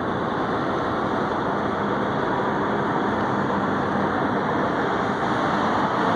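Steady drone of idling heavy truck engines, with a faint low hum running under it.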